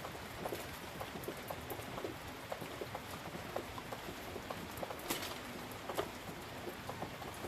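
Rain falling steadily, with scattered drops tapping close by at uneven intervals and two sharper taps about five and six seconds in.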